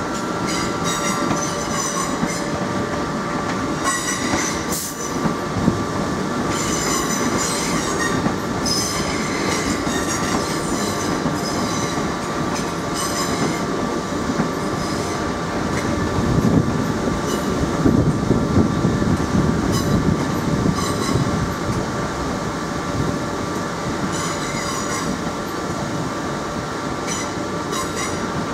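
Electric multiple-unit train moving slowly through station pointwork, its wheels squealing in repeated short high-pitched bursts over a low rumble. Under it runs the steady hum of a standing electric train.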